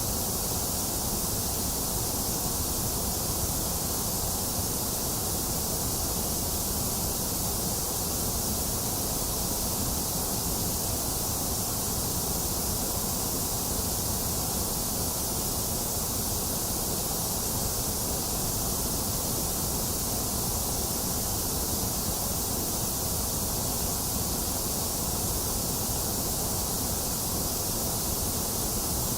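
Box fan running steadily, mixed with continuous rain, forming an even, unchanging noise with no thunder.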